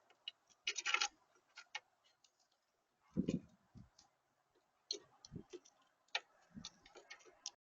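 Birds at a feeder: irregular sharp clicks and taps of beaks on seed and the feeder, with three dull thumps about a third of the way in, near two-thirds and near the end.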